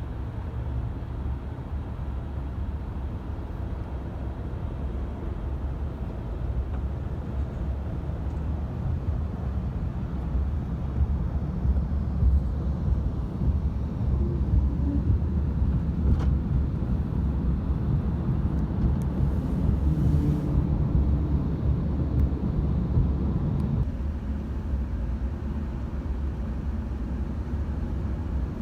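Low rumble of a jet airliner's engines at an airport, swelling over several seconds and then easing off near the end.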